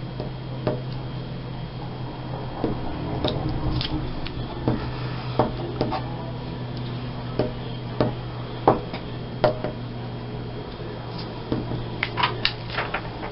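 Light taps, clicks and knocks of crafting materials and a placemat being handled on a tabletop, irregularly spaced with a quick cluster near the end, over a steady low hum.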